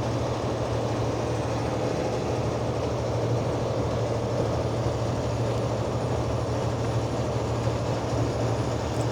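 Steady low drone of a semi-truck's diesel engine with road and tyre noise, heard from inside the cab while cruising at highway speed.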